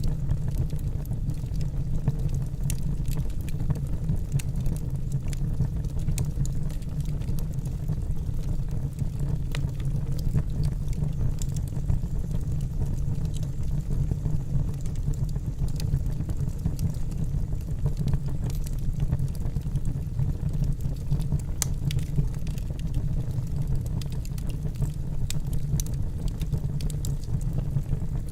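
Wood fire burning in a fireplace: a steady low rumble of the flames with frequent small, irregular crackles and pops from the logs.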